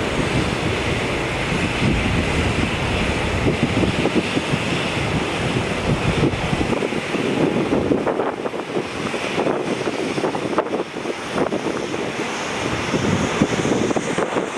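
Jet engines of a Boeing 787-9 Dreamliner at takeoff power, a loud steady roar, with wind buffeting the microphone. The deep rumble thins out about halfway through.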